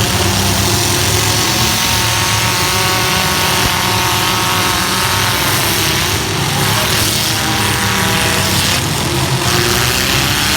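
Several demolition-derby compact pickup truck engines running hard at once, loud and steady, with the revs climbing a couple of times past the middle.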